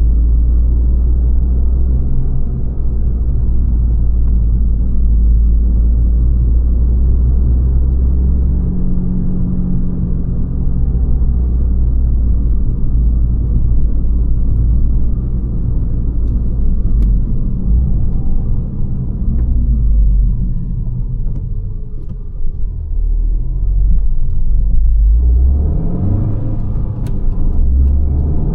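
Abarth 595 Competizione's turbocharged 1.4 T-Jet four-cylinder engine and Record Monza exhaust, a deep steady rumble under driving. It eases off past the middle, then pulls harder again near the end, rising in pitch.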